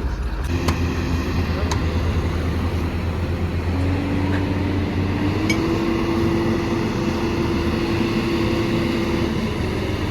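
Heavy diesel engine running steadily, its note stepping up a little about four seconds in and again a second or so later, with a few faint sharp clicks.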